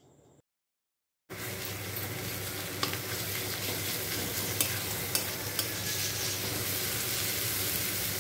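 Sliced onions and garlic paste sizzling in hot oil in a metal kadai, stirred with a metal spatula that clicks against the pan a few times. The frying starts abruptly about a second in, after a moment of silence.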